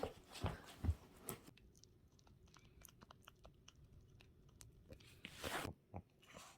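A Pomeranian chewing and gnawing on a toy: faint, scattered small clicks and crunches, with a few louder knocks in the first second and a short scratchy rustle about five seconds in.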